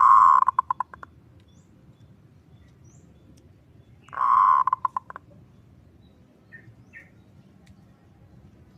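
Zebra dove (perkutut) cooing twice, about four seconds apart. Each call is a held coo that breaks into a quick rattle of short notes, in the 'kerot ngutut kowar' style used to train and lure perkutut.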